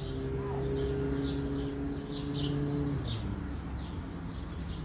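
Small birds chirping over and over in short falling notes, and a steady low droning tone that holds for about three seconds and then fades out.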